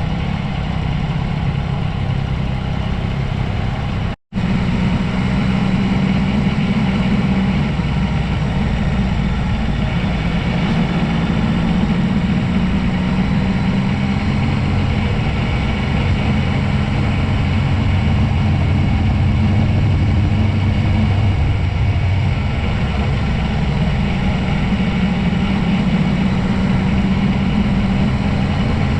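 Steady, low vehicle-engine drone that drifts slowly in pitch. It cuts out completely for a split second about four seconds in, then carries on unchanged.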